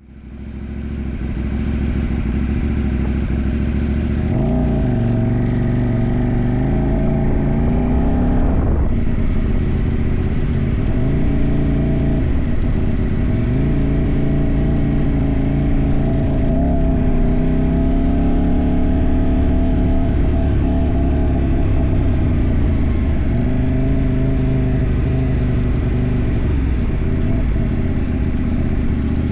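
CFMoto 800NK's 799 cc parallel-twin engine heard from the tank while riding. The revs climb from about four seconds in and drop sharply at a gear change near nine seconds, then keep rising and falling through the rest.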